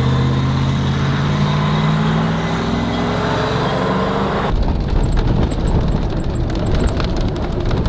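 A truck's engine pulling away, its note rising slowly for about four and a half seconds. Then the sound cuts abruptly to a low rumble of driving noise with rattles and knocks.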